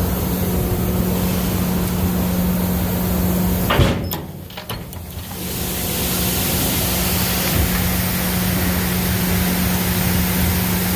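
Grain truck's diesel engine idling steadily, with a single knock about four seconds in, after which the engine sound turns muffled for a moment before it comes back.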